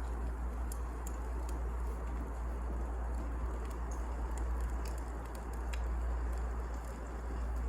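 Wood fire burning in a fireplace: a steady low rumble and hiss with scattered sharp crackles and pops from the burning logs.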